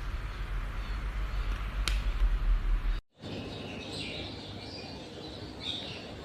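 Small birds chirping over steady background noise. A low rumble and a single click fill the first half, and the sound cuts out abruptly for a moment about three seconds in.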